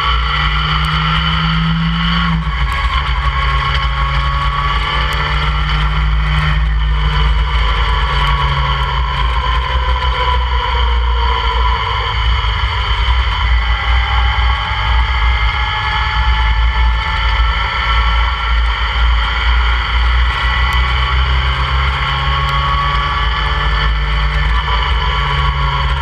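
Open-cockpit sports car's engine running hard on track, its pitch rising and falling as it accelerates, with a heavy low rumble of wind and road noise throughout.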